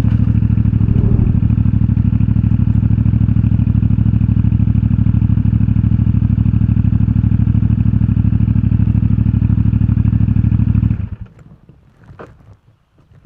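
CFMoto 450MT's parallel-twin engine idling steadily, then switched off about eleven seconds in. A few faint clicks and rustles follow.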